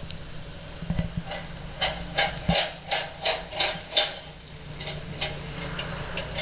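50-inch Dixie Chopper zero-turn mower's engine running steadily at idle. For a couple of seconds a run of sharp, irregular ticks, about three a second, sits over it.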